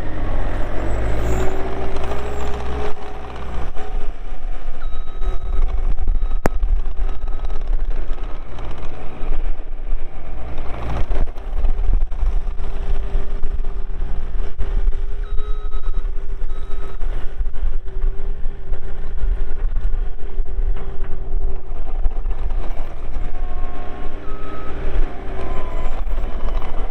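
Bobcat T320 compact track loader's 92 hp Kubota diesel running steadily as the machine is worked, the engine note drifting up and down. A reversing alarm sounds in short beeps now and then.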